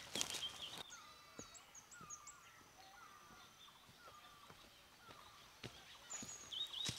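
Birds calling in a hillside village: a short hooked note repeated about twice a second, with thin high chirps above it. A few knocks and rustles come at the start and near the end.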